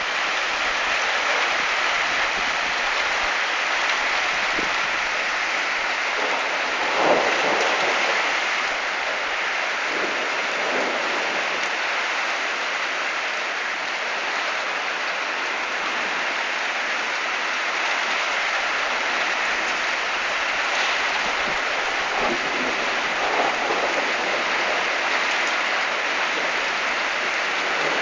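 Heavy rain falling steadily, with thunder rumbling briefly a few times, loudest about seven seconds in.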